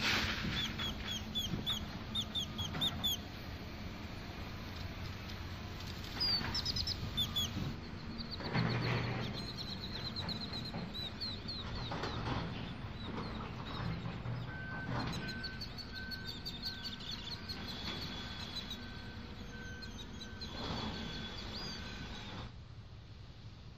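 Small birds chirping in quick repeated calls over a low steady hum. In the second half, a high beep repeats about once a second.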